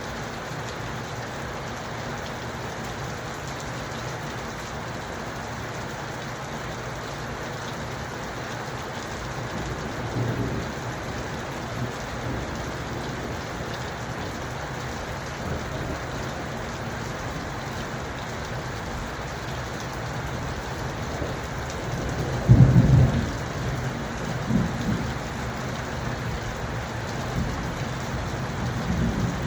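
Steady heavy rain falling, with distant thunder rumbling: a short rumble about ten seconds in and a louder, longer roll of thunder about two-thirds of the way through.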